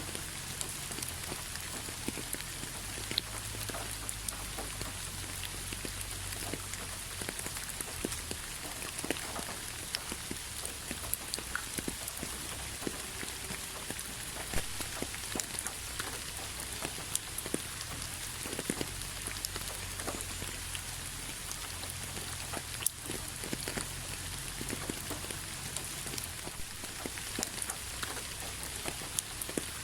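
Steady rain falling, a constant hiss with many separate drops ticking on a hard surface, over a low rumble.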